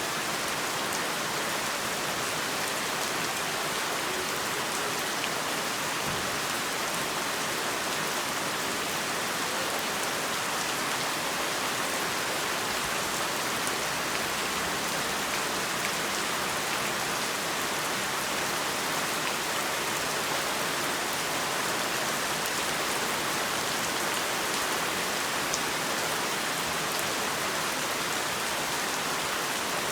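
Heavy rain falling, a steady, dense hiss of drops on surfaces.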